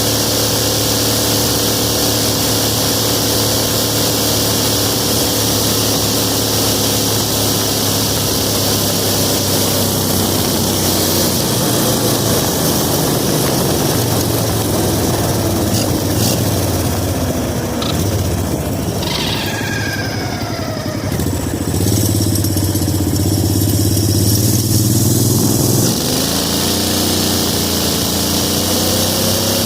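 18 hp V-twin minibike engine running steadily, then changing speed in the second half: the revs fall and pick up again, with a stronger low hum a little after the middle and the revs rising near the end.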